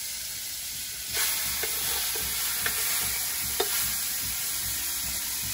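Seasoned pork pieces (pico y pala, pig snout and feet) sizzling as they are spooned into a large pan of hot fat over a wood fire. The sizzling swells about a second in and stays loud, with a few sharp clinks of the metal spoon.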